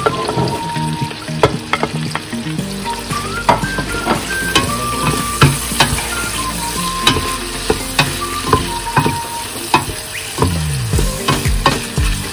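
Vegetables and shrimp sizzling in hot oil in a stainless steel pot while being stirred with a wooden spoon. The spoon knocks sharply against the pot many times.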